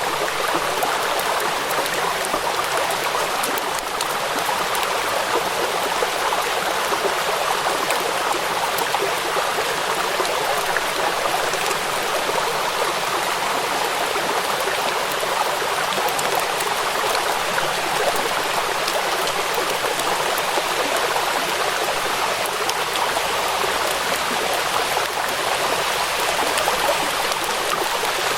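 Steady rain, an even hiss with fine patter of drops throughout.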